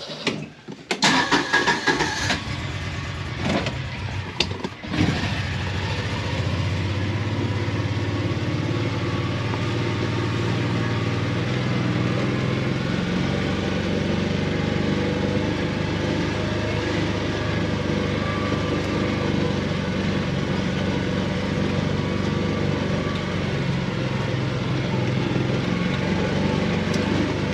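A vehicle engine starts up in the first few seconds, with some knocks and clatter around it, then runs steadily.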